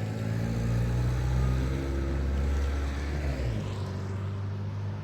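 A motor vehicle's engine running as it passes by, louder through the first few seconds, then dropping away about three and a half seconds in.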